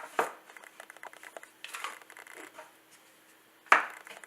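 Packaging from a smartwatch box being handled: a run of light clicks and brief rustles, and one sharp knock about three-quarters of the way through.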